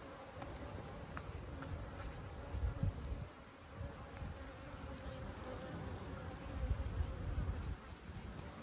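Honeybees buzzing steadily as they fly around their hive, with low rumbling on the microphone that swells twice.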